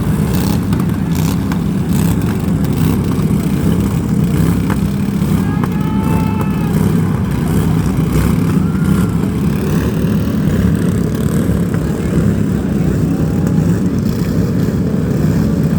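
Engines of several small racing vehicles running loud and steady under throttle.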